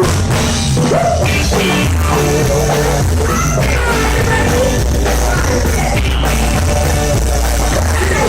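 Loud rock music with a singer's voice over heavy bass, a band playing at a sound check.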